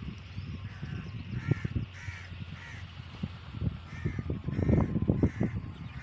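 A bird calling in two runs of short, evenly spaced calls, four and then three, over a low, gusty rumble of wind on the microphone.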